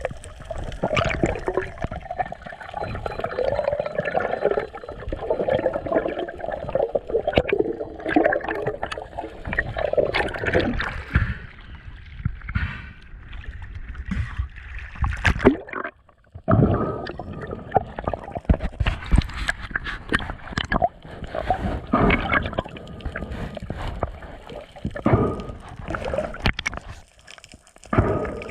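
Water sloshing and gurgling, with irregular splashes and small knocks; it drops out briefly a little past halfway.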